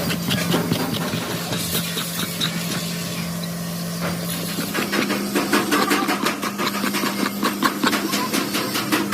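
An engine or motor running steadily with a rapid ticking, its pitch rising slightly about five seconds in.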